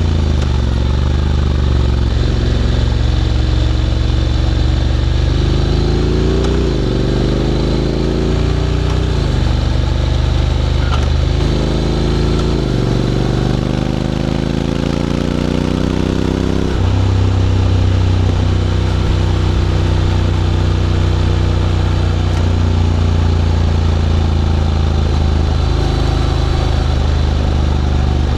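Honda X-ADV 750 parallel-twin engine running through an SC-Project titanium slip-on exhaust while riding. Its pitch climbs and drops back several times in the first half, then holds a steady note from a little past the middle.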